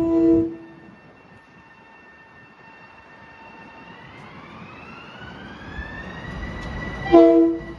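Long Island Rail Road train horn: a loud multi-note chord blast cutting off just after the start and a second short blast near the end. Between them a whine rises steadily in pitch as a train picks up speed.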